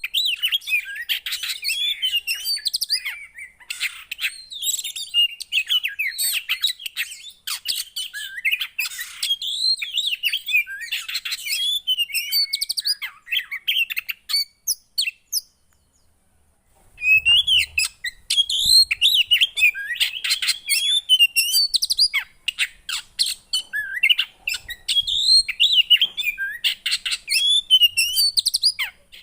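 Small songbird's song, the bird Indonesian keepers call a poci: a dense run of fast, high chirps and twittering phrases that glide up and down in pitch. It stops for about a second and a half past the middle, then starts again just as busily.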